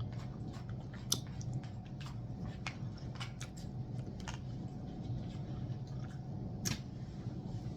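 A person chewing food, with scattered small clicks a few times a second apart, over a steady low hum.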